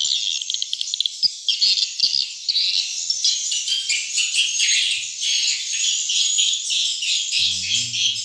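Swiftlets twittering in a dense, unbroken chorus of high chirps, with a brief low hum near the end.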